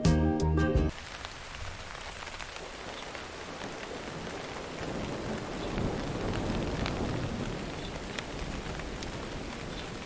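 Background music stops about a second in. It gives way to a steady patter of falling water, with scattered faint drips or ticks.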